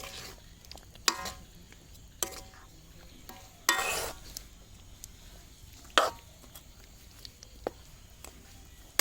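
A spatula stirring chicken ghee roast in a pan, knocking and scraping against the pan about six times, with a longer scrape near four seconds in. A faint sizzle of the masala frying in ghee runs underneath.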